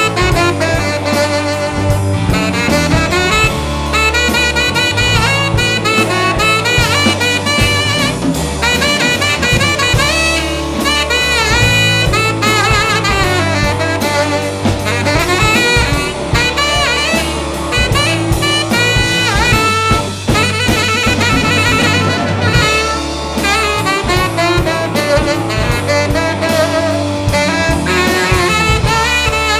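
Live rock band in an instrumental break: a saxophone plays a solo over the drum kit and band.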